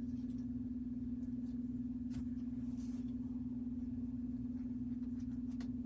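A steady low hum on one unchanging pitch, with a few faint soft ticks over it.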